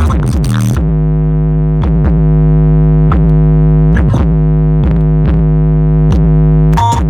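Bass-heavy electronic music played loud through a car audio system: long held synth bass notes with a few punchy drum hits, the treble cut off for most of it.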